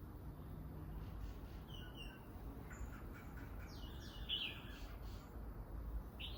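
Small garden birds chirping: scattered short, high chirps that begin about two seconds in, grow louder in a cluster around the middle and come again near the end, over a steady low background rumble.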